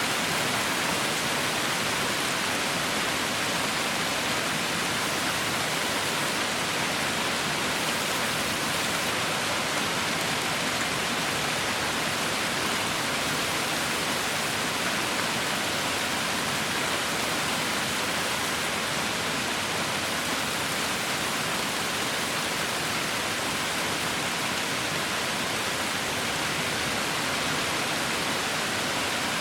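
Heavy rain falling, a dense, steady hiss with no single drops standing out.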